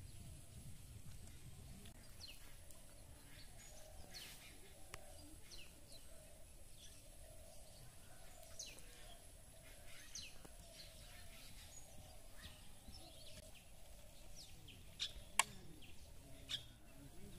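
Faint outdoor ambience: scattered short bird chirps over a low, steady background, with a few sharp clicks near the end.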